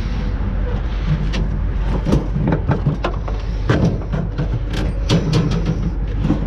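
Repeated knocks and clanks as the thin sheet-metal shell of a half refrigerator is shifted and wedged into a load, over a steady wind rumble on the microphone.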